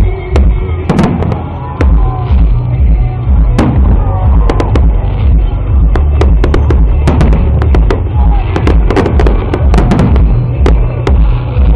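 Fireworks display: many sharp bangs and crackles of bursting shells, coming thick and fast from about six seconds in, over loud music with a heavy low beat.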